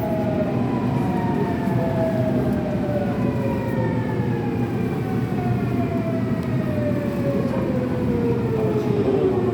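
Subway train running, with a rumble under a whine of several parallel tones from its electric traction motors that fall steadily in pitch as the train slows.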